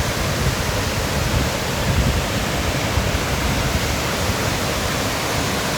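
Steady rushing of a large cascading waterfall, heard close to its base as one continuous, full noise strongest in the low range.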